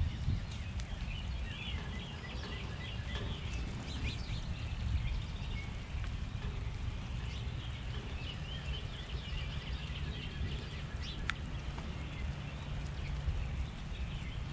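Small songbirds chirping and twittering in many short, quick calls, over a steady low rumble.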